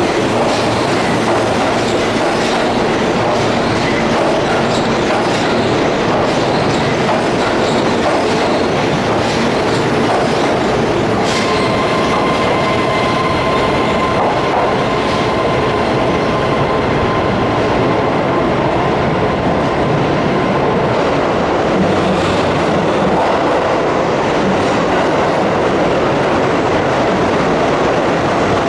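Keihan electric train moving along the platform track, with a steady rumble of wheels on rail and the clack of rail joints. A steady high-pitched tone starts abruptly about eleven seconds in and runs for about ten seconds.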